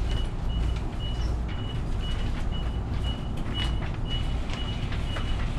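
An electronic beep repeating evenly about twice a second on one high pitch, over the steady low hum of a parked passenger train carriage, with a few light knocks.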